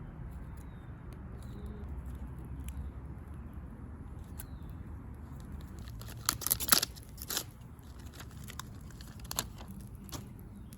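Small campfire crackling with scattered sharp pops and a brief burst of louder crackles about six seconds in, over a low steady rumble of distant road traffic.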